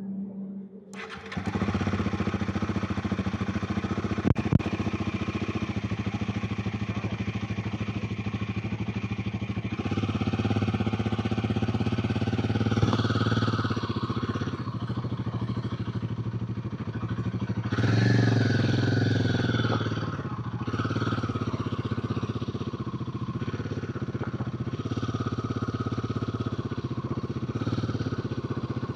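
Royal Enfield Himalayan 450's single-cylinder engine and exhaust running under way, its note rising and falling with the throttle and swelling twice as it pulls harder. A single sharp click or knock sounds about four seconds in.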